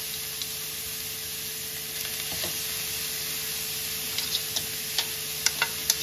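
Grated carrots sizzling in hot ghee in a kadai, a steady hiss. From about four seconds in, a spatula knocks and scrapes against the pan in a run of sharp clicks as the carrots are stirred.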